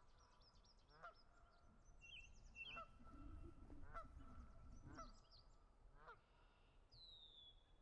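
Faint bird calls: a short pitched call repeated about once a second, with higher chirps over it and one long falling whistle near the end.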